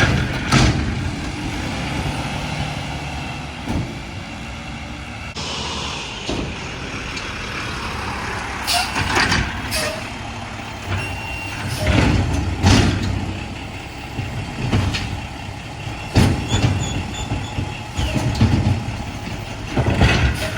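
Mack LR garbage truck with a McNeilus side-loader body running, its engine rumbling steadily, with several short, loud bursts at irregular intervals.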